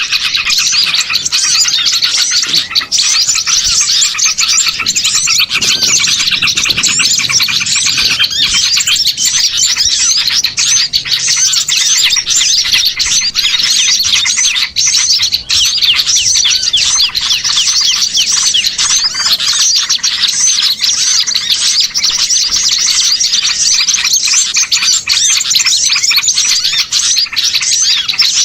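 Dense, noisy chorus of many small songbirds chirping and twittering over one another without a break: a bird-lure recording of excited small birds, made to call wild small birds in for trapping.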